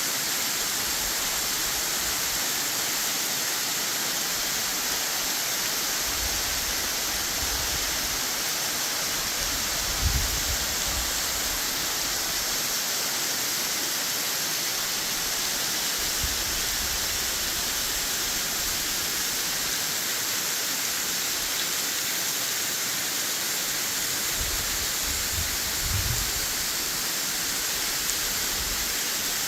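Mary Jane Falls waterfall at high spring run-off flow, a steady rushing of falling water. A few brief low rumbles, the loudest about ten seconds in and again near the end.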